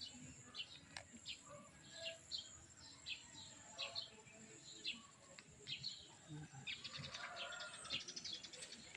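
Faint small-bird chirps, short and high-pitched, repeating irregularly about once or twice a second, over a steady faint high whine.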